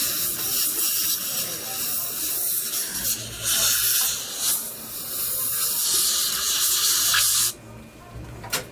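Dental treatment equipment hissing at the patient's mouth, in long stretches with brief dips, cutting off suddenly about seven and a half seconds in. A single sharp click follows near the end.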